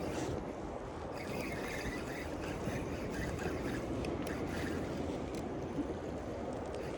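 Water lapping and trickling against a kayak's hull, a steady wash with a few faint ticks in the middle.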